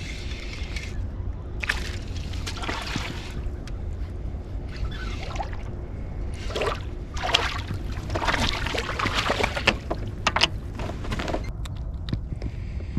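Water sloshing against a fishing kayak's hull, with irregular knocks and rustles over a steady low rumble.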